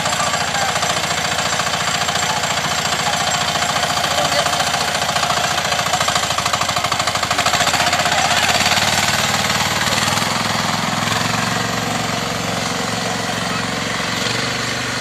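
Diesel engine running with a fast, even knocking beat. About ten seconds in it settles into a smoother, lower running.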